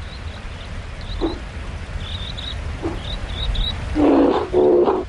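Grizzly bear growling twice in quick succession near the end, with a couple of shorter, fainter grunts before.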